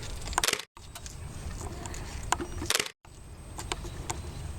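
Paper crackling: scattered clicks and crinkles, with two denser crackling bursts, each cut off by a sudden brief dropout of all sound.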